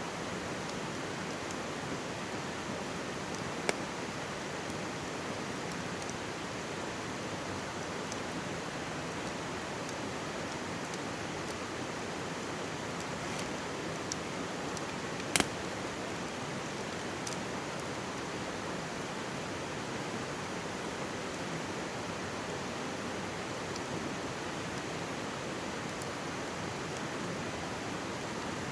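Mountain stream babbling steadily, with the sharp pops and crackles of a wood campfire over it; the loudest pops come about four seconds in and about halfway through.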